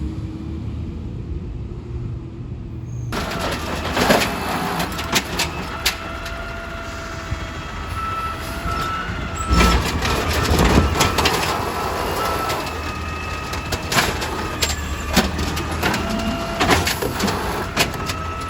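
Garbage truck at work: the engine runs steadily while sharp metal clanks and knocks sound again and again, with a faint steady whine at times. The sound changes abruptly about three seconds in, becoming sharper and fuller.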